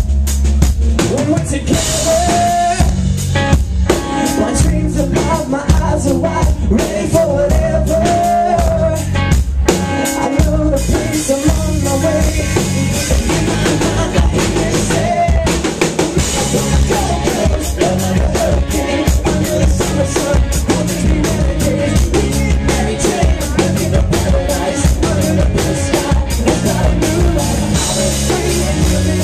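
Live pop-rock band playing an instrumental passage of a song. A drum kit drives a steady beat under a moving melody line, with no singing.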